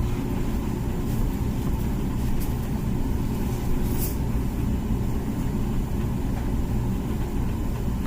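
Comfee dishwasher running its wash cycle: a steady low rumble of the wash pump and spraying water, with a faint tick about four seconds in.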